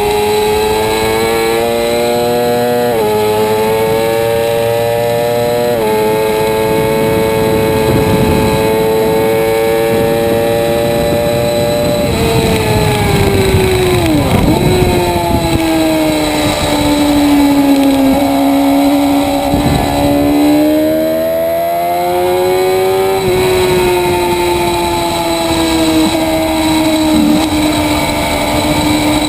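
Motorcycle engine at racing pace on a track, with a rushing noise underneath. The revs climb and drop sharply with quick upshifts about 3 and 6 seconds in. They fall away through the middle with a brief deep dip, then build again and ease off near the end.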